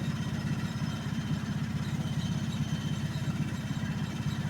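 An engine idling steadily, with a fast, even low throb.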